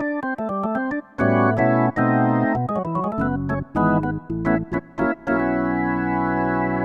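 Korg Wavestation synthesizer patch with a bright, organ-like electric-piano tone, played as a quick run of short notes and chords, then a chord held from about five seconds in.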